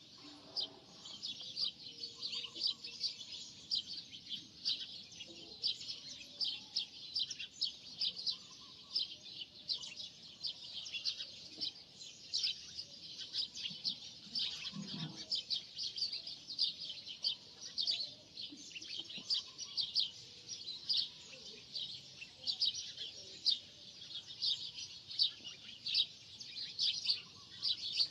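Birds chirping rapidly and continuously, several chirps a second.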